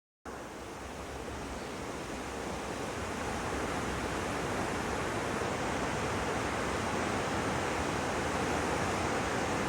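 Rushing river rapids on the rain-swollen Potomac: a steady roar of fast white water that slowly grows louder.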